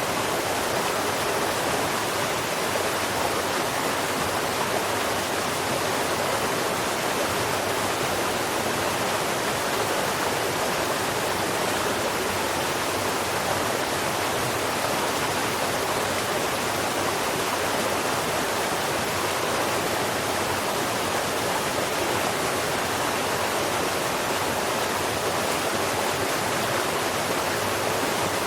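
Steady rushing of running water, like a stream or small waterfall, unchanging throughout, with no bird song over it.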